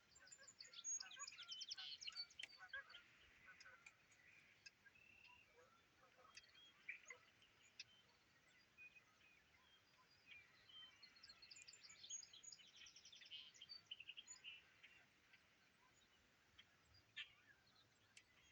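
Faint songbirds singing and chirping, with two stretches of rapid, trilling song, one in the first few seconds and another about twelve seconds in, and scattered short calls between.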